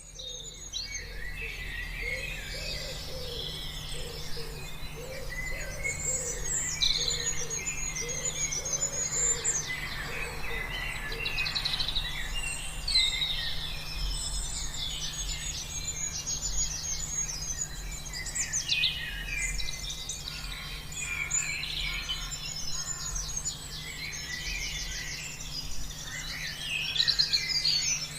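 A dense chorus of many birds singing and calling at once, full of chirps, trills and rapid repeated notes. A lower call repeats through roughly the first ten seconds, over a low steady hum.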